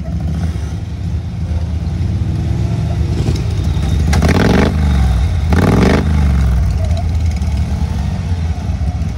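Lawn-tractor engine running under load and revved hard twice in quick succession, its pitch climbing and falling with each rev, as the crawler works while high-centered on rocks.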